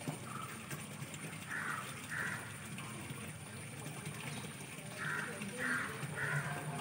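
A bird calling in short, harsh caws: two about a second and a half in, then three more in quick succession around five to six seconds in, over a steady low hum.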